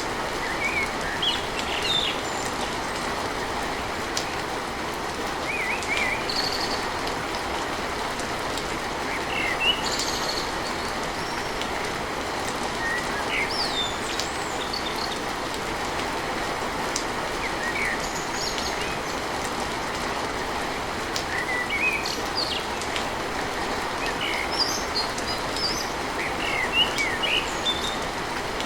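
Steady rain falling on a tin roof, with birds chirping on and off throughout.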